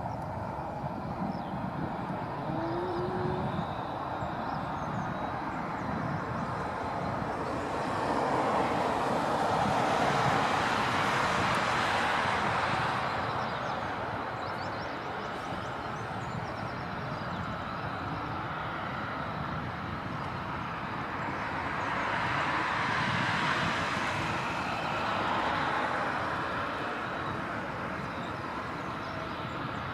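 Jet engine noise from a Boeing 737-800's CFM56 engines as the airliner lands and rolls out. It is a steady rushing sound that swells twice, about eight seconds in and again around twenty-two seconds in.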